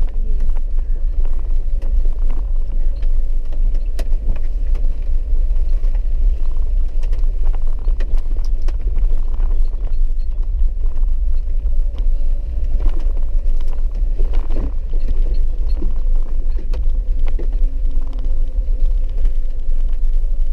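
Steady low rumble of a four-wheel-drive vehicle driving a rough, wet dirt road, heard from inside the cabin.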